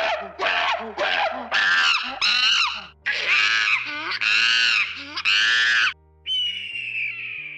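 A series of high-pitched animal calls: short ones about two a second, then three longer ones, and a last call that fades out, over quiet background music.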